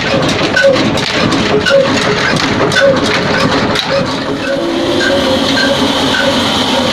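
Old 22 hp diesel engine running slow, each beat a knock and chuff at about two a second. About four and a half seconds in the knocks soften and a steady hiss joins.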